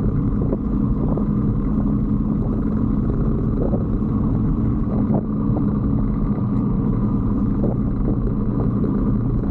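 125cc Brixton motorcycle engine running at a steady pace while riding, with an even engine note and no revving up or down.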